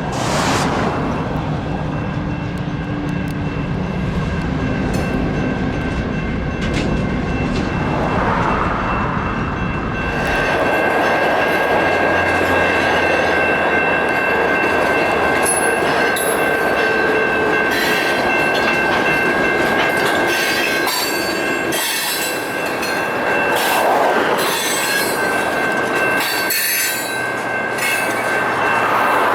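Light rail train on the rails with its wheels squealing: a steady, high, whistling squeal sets in about ten seconds in and holds to the end. A low rumble fills the first ten seconds.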